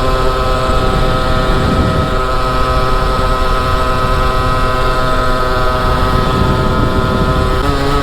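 Motorcycle engine running at steady revs while riding, its pitch holding nearly level with a brief dip and recovery near the end, over a rumble of wind on the microphone.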